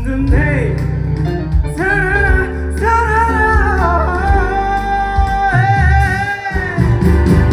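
Live band music with a singer holding long, wavering sung notes over a steady low accompaniment.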